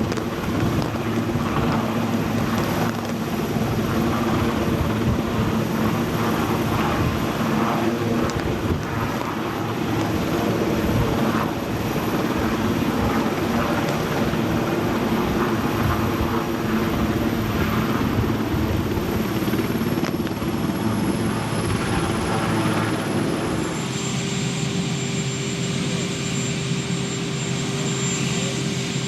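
Large helicopter running with steady rotor and turbine noise from somewhere out of sight; near the end the sound settles into a steadier hum with a high whine.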